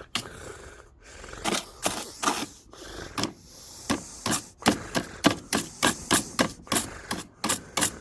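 Brisk scraping strokes of a hand brush cleaning wet grass clippings off an electric lawnmower. The strokes are sparse at first, then come about three a second.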